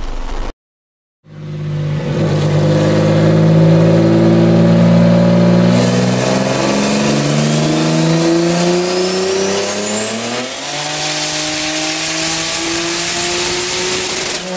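Built Nissan Maxima VQ35 3.5-litre V6 making its first pull on a chassis dyno. The engine comes in loud about a second in and runs fairly steady, then its pitch climbs from about six seconds in and holds high near the end. A thin high whistle rises with it.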